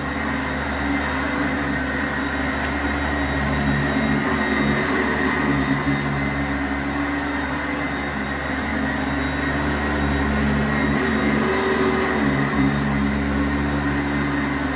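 Sanitaire SC684G commercial upright vacuum cleaner running steadily over carpet, a continuous motor hum and airflow rush that swells and eases slightly as it is worked back and forth.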